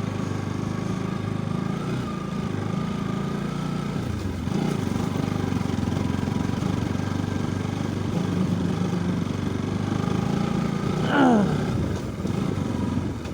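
Motorcycle engine running steadily on a rough, muddy trail. Near the end a brief louder whine falls steeply in pitch.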